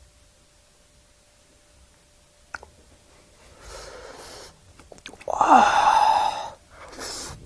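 A man's loud breathy sigh about five seconds in, falling in pitch. Before it come a near-quiet stretch, a single sharp click and a softer breath, and a shorter breath follows near the end.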